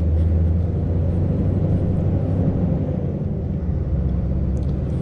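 Scania V8 truck engine running steadily under way, a continuous low drone with road noise.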